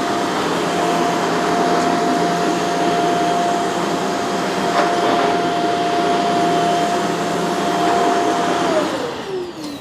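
Shark CZ351 canister vacuum running steadily on a rug, its motor giving a steady whine over a broad rushing noise. About nine seconds in it is switched off and the whine falls in pitch as the motor spins down.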